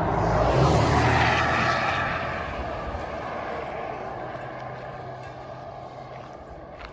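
An aircraft engine passing overhead, loudest about a second in and then slowly fading away.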